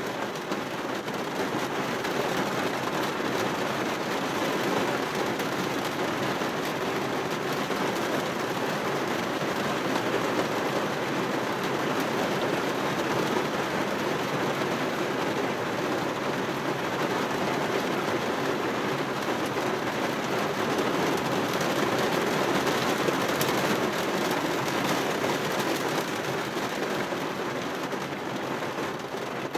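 Rain falling on a car window, heard from inside the car: a steady, dense hiss of many drops that keeps up without a break.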